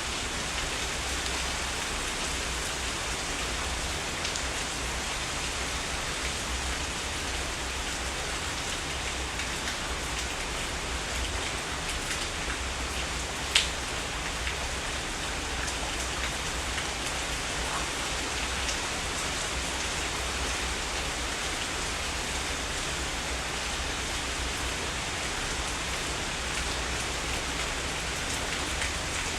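Steady heavy rain falling, with scattered drop ticks and one sharp tap about halfway through, over a steady low rumble.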